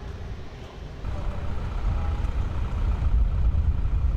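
Firefighting aircraft's engines running: a low rumble that grows louder about a second in, with a faint steady whine above it.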